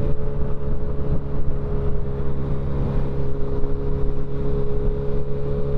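Motorcycle engine running at a steady cruising speed, its pitch holding constant, over a low rumble of wind and road noise.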